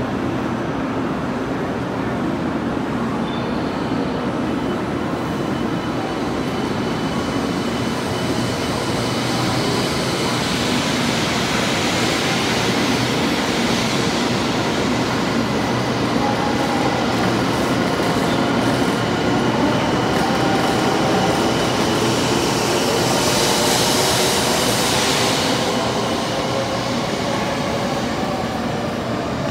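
Shinkansen train noise at a station platform: a steady rumble with a faint whine gliding in pitch through the later part, and a hiss that swells and fades twice, about a third of the way in and near the end.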